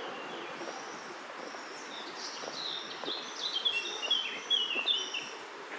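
A bird calling in a quick run of short, clipped chirping notes, loudest in the second half, over a steady background hiss.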